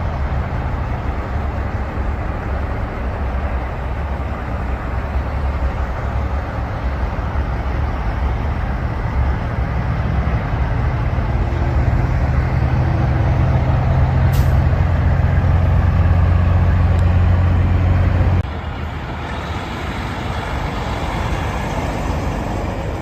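Heavy truck engine running with a deep, steady drone that grows louder until about 18 seconds in, then cuts abruptly to a quieter, hissier vehicle sound.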